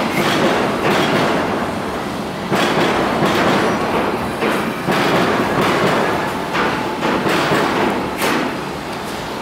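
A train rumbling past, loud and steady with irregular clacks, easing off slightly near the end.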